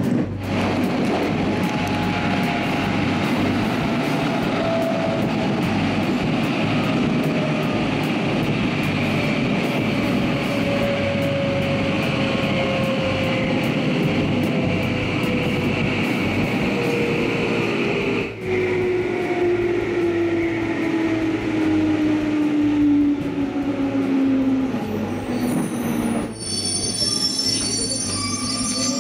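Electric train heard from inside the carriage as it slows into a station. The running rumble is steady while a motor whine glides slowly down in pitch, and high squealing comes in during the last few seconds as the train comes to a stop.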